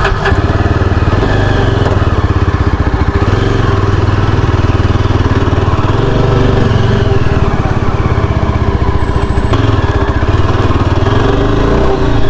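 Yezdi Adventure's 334 cc single-cylinder engine running as the motorcycle pulls away and rides at low speed, a steady fast pulsing exhaust note that rises and falls a little with the throttle.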